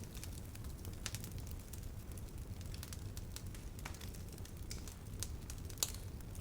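Campfire burning, with irregular sharp crackles and pops from the wood over a steady low rumble of the flames; one louder pop near the end.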